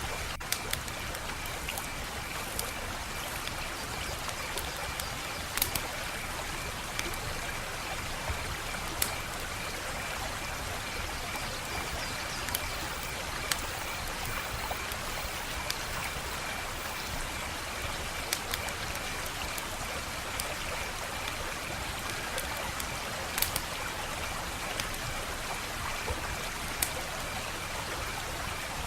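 Wood fire crackling: a steady hiss with sharp, irregular pops every second or two.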